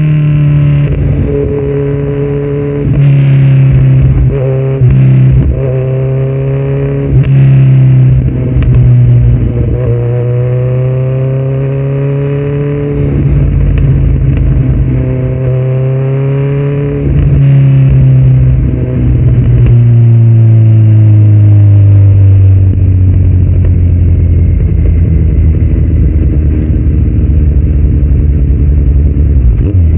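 2018 Kawasaki Z900 inline-four running through a Yoshimura muffler and Delkevic headers with no dB killer, heard from the rider's seat: the revs climb and drop back again and again, then it settles to a lower, steadier note over the last several seconds.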